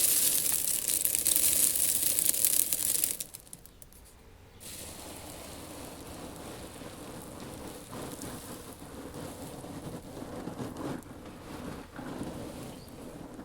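Loose seed shifting and pouring in a seed tank, a dense hissing rush. About three seconds in it drops away almost to nothing for a second and a half, then carries on as a softer, steady rustle.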